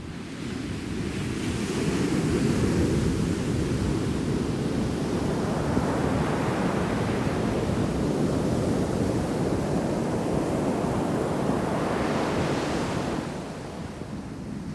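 Ocean waves crashing in a heavy shore break and washing up the beach: the surf swells up over the first two seconds, stays loud, then eases off near the end. Wind rumbles on the microphone underneath.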